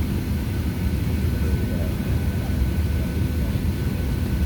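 Steady low rumble of the cabin inside a Boeing 737-700 on the ground before takeoff, with a faint steady high whine over it.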